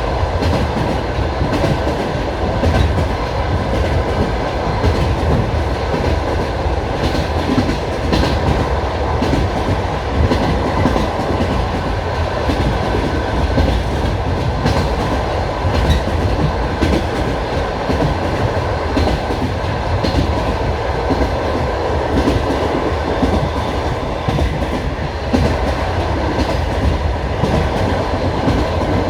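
Passenger train running, heard from inside the carriage: a steady low rumble of wheels on rails, with scattered clicks of the wheels over rail joints.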